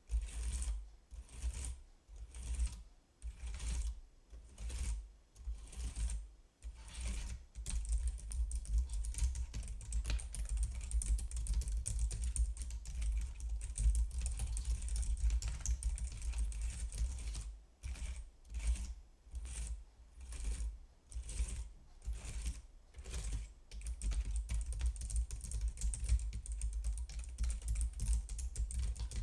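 Typing on a computer keyboard, the keys clicking. Short bursts of keystrokes with pauses between them give way to fast, unbroken typing about eight seconds in; the typing breaks into short bursts again past the middle, then runs on fast.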